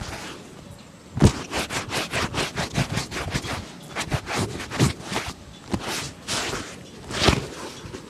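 Quick brushing and rubbing strokes on a shoe during a shoe shine, several a second, starting about a second in.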